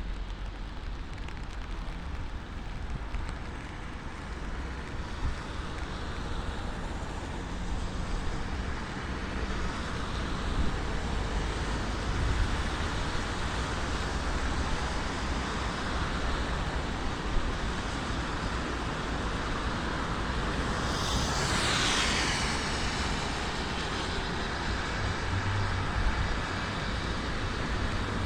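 Busy city street traffic in the rain: a steady wash of engines and tyres with a low rumble. About 21 seconds in, something passing close stands out, its sound sweeping down in pitch.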